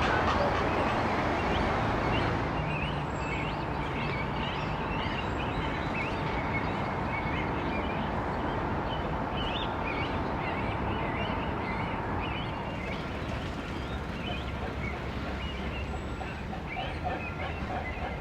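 Many short bird calls and chirps scattered throughout, over a steady background hum.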